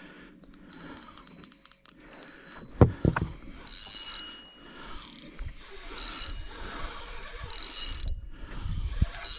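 Fishing reel's drag ratcheting in three short bursts as a fish strikes a trolled lure and takes line. A single loud knock comes just before the first burst.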